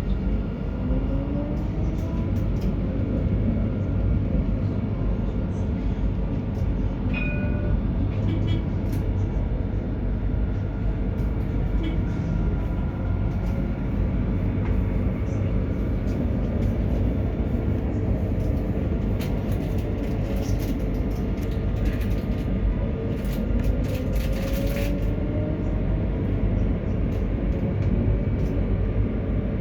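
Alstom tram running on its rails, heard from the cab: a steady low rumble with scattered clicks and rattles. The electric traction motors give a whine that rises in pitch as the tram pulls away, near the start and again about two-thirds of the way through.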